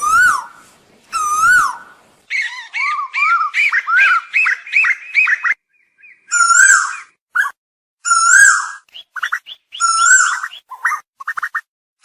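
Asian koel calling: loud swooping notes that rise and fall, then a fast run of short rising notes. After that, more swooping calls about every two seconds, with quick sharp notes in between.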